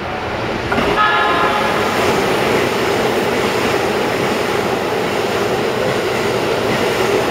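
A Keikyu electric train passes through the station at high speed, with a short horn blast about a second in, followed by the steady loud running noise of the cars going by.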